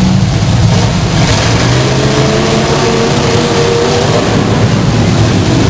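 Demolition derby cars' engines revving together, loud and continuous, with the engine pitch rising and falling as drivers rev up to ram each other.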